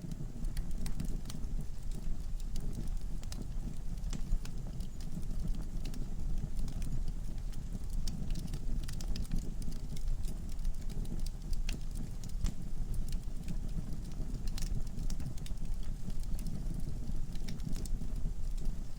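Wood fire burning in a fireplace: a steady low rumble of flames with frequent sharp crackles and pops from the logs at irregular intervals.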